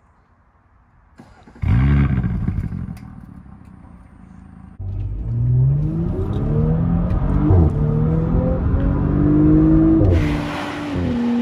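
Audi SQ5's turbocharged V6 with an ABT exhaust, heard at the tailpipes starting up about two seconds in with a loud rev flare that then settles. After that, from inside the car, the engine pulls under acceleration with its pitch rising, then drops in pitch near the end and holds steady.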